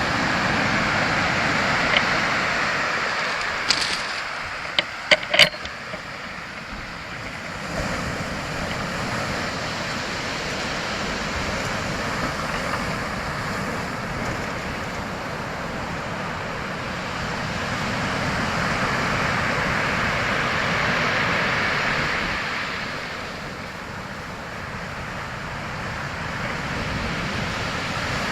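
A steady rushing noise that slowly swells and fades, with a few sharp clicks about four to five and a half seconds in.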